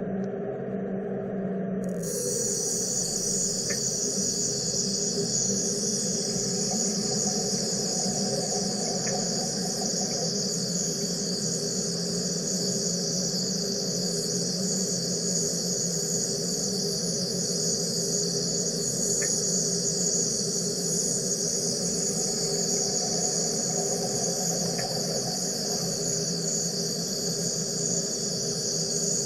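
Wire EDM machine cutting: a steady high-pitched hiss switches on about two seconds in and holds, over a steady low machine hum.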